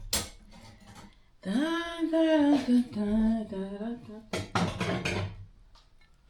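A drawn-out voice lasting about three seconds: it rises, holds, then falls in a few steps. It is followed near the end by a short clatter of kitchenware.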